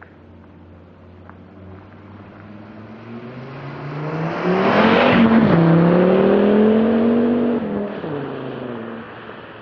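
Volvo 850 T5's turbocharged five-cylinder engine and exhaust under hard acceleration. The revs climb and the sound swells, then drop sharply with an upshift about five seconds in. The revs pull up again before the driver backs off near the end and the sound fades.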